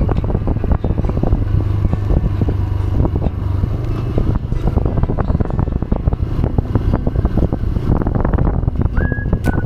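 TVS Raider 125 single-cylinder motorcycle engine running steadily while riding a rough off-road trail, with many irregular knocks and rattles. A brief high whistle comes near the end.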